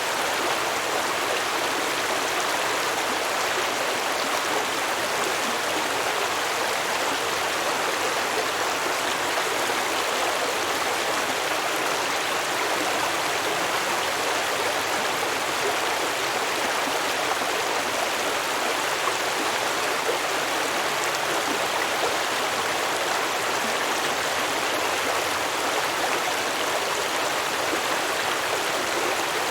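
A shallow stream running over rocks: steady babbling and rushing of water at an even level.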